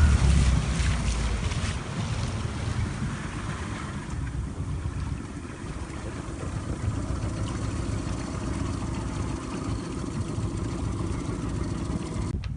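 Suzuki DF20AS 20 hp outboard motor on an inflatable dinghy under way; its loud drone falls off right at the start, leaving the motor running lower under steady rushing water and wind noise.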